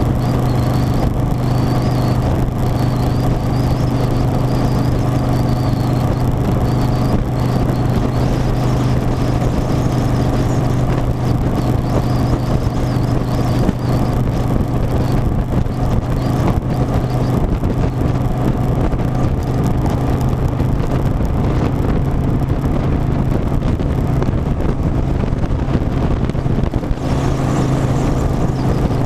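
Harley-Davidson Softail Standard's V-twin engine running at a steady, unchanging engine speed, with a constant low rumble underneath.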